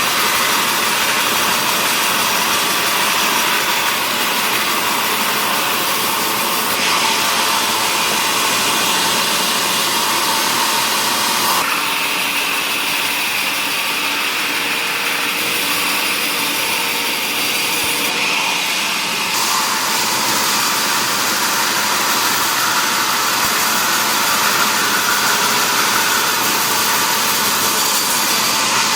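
Woodworking machinery running steadily with a loud, hissing whir. The sound changes abruptly several times, about 7, 12, 18 and 19 seconds in.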